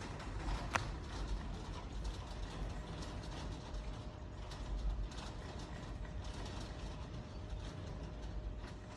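Things rattling and creaking as an earthquake shakes the room: a rapid, irregular clatter of small clicks over a low rumble.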